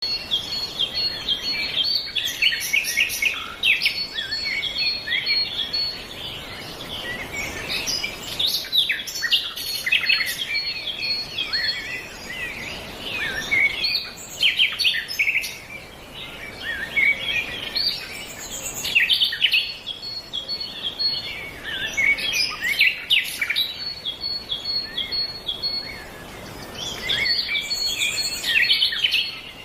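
Several songbirds singing and chirping at once, quick overlapping phrases rising and falling in waves every few seconds, with a thin high pulsing note running through parts of it.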